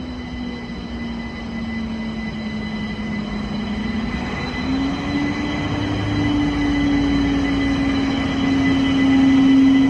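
A train running nearby, its engine or motor humming on one strong note. The note dips slightly, then climbs again about halfway through, and the sound grows louder toward the end.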